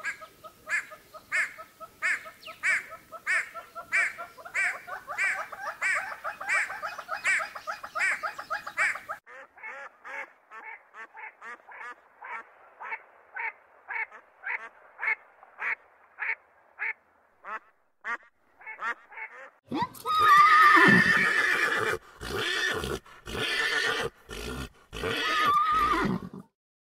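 Animal calls: a long, evenly spaced series of pitched calls at about two a second, then after an abrupt change a faster, fainter series that fades away. Near the end comes a louder, harsher stretch of calls broken by short gaps.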